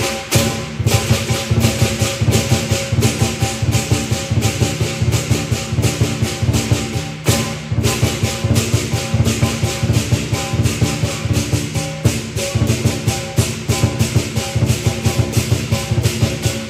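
Lion dance percussion: a big drum beaten fast, with crashing cymbals and a ringing gong keeping up a dense, driving rhythm.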